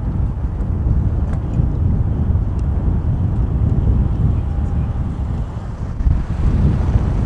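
Low, steady rumble of a Boeing 747-400 freighter's four jet engines, mixed with wind buffeting the microphone.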